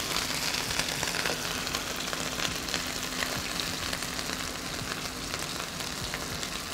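Minced-meat kebab patties sizzling as they shallow-fry in hot oil in a pan, a steady hiss with dense fine crackling.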